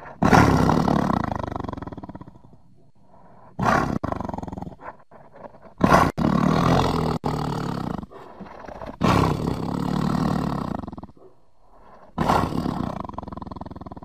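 Sabre-toothed cat (Smilodon) sound effects: a series of about five loud big-cat roars, each a second or two long, with short quieter gaps between them. Some of the roars are cut off abruptly.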